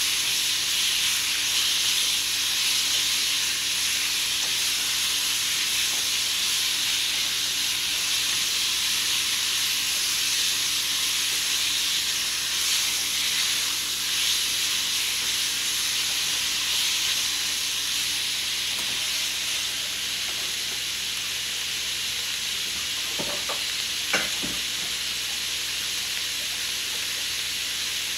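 Sliced vegetables sizzling steadily in a hot non-stick wok as they are stirred with wooden chopsticks. There is one sharp tap near the end.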